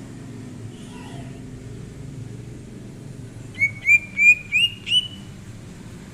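Cucak ijo (green leafbird) calling: a quick run of five short upslurred notes about halfway through, each a little higher than the last.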